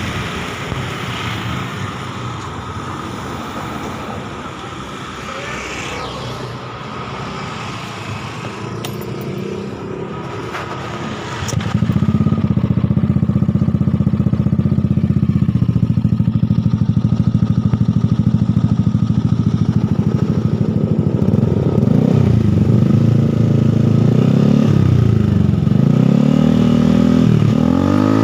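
Yamaha Aerox scooter engine running through a Mafia aftermarket exhaust. After about eleven seconds the exhaust note suddenly becomes much louder and holds steady, then from about twenty seconds it is revved several times, rising and falling in pitch.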